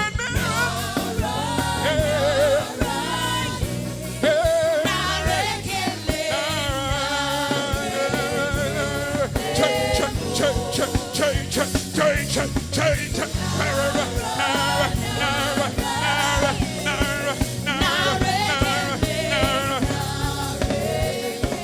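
Gospel praise song sung with a live band: voices singing a wavering melody over a steady bass line and drums.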